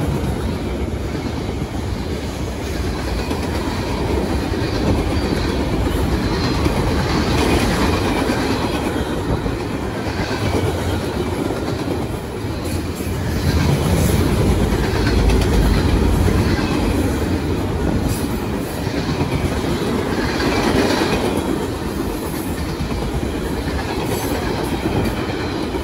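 Freight cars rolling past close by, a steady heavy rumble with the clickety-clack of wheels over rail joints, swelling louder for a few seconds about halfway through.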